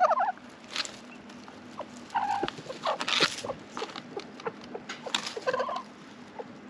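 A hen clucking three times, with scratching and rustling clicks between the calls.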